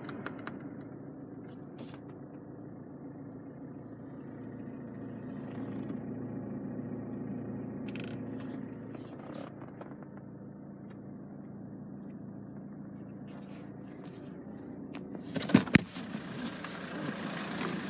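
Steady low hum of the Saab 9-3's 1.9 TiD turbo diesel idling, with the climate fan, heard from inside the cabin. Near the end come two sharp clicks from the door being opened.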